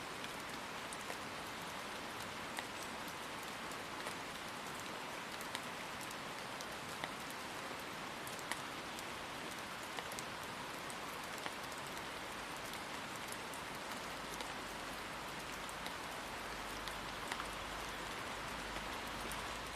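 Steady rain falling, with single drops ticking sharply here and there over the even hiss.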